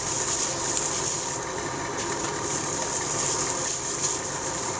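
A steady mechanical hum with a constant hiss, as from a motor running.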